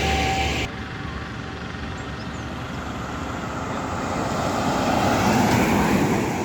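A steady high-pitched tone over loud road noise stops abruptly less than a second in. Then a state-transport bus approaches and passes at speed, its noise building to a peak about five and a half seconds in and then fading.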